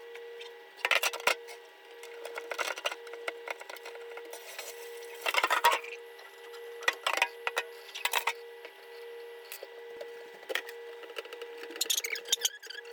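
Scattered knocks, clicks and short scraping rubs from cleaning out a refrigerator: containers and shelves handled and wiped. Under it runs a steady hum.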